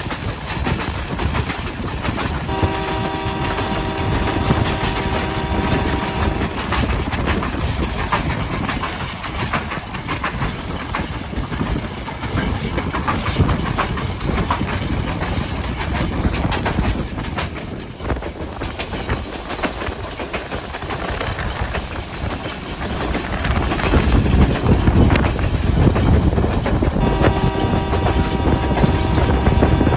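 Passenger train running on the rails with a steady rumble and clickety-clack. A train horn sounds twice: a held blast of about four seconds a few seconds in, and another near the end.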